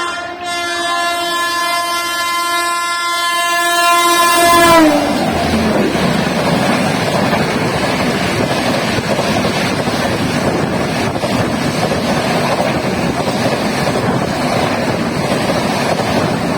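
A WAP-7 electric locomotive sounding its horn as it approaches at speed, a steady chord growing louder, its pitch dropping sharply as it passes about five seconds in. Then the long rush of the LHB coaches of the Bikaner–Howrah Superfast running through at about 130 km/h, a loud even roar with some wheel clatter.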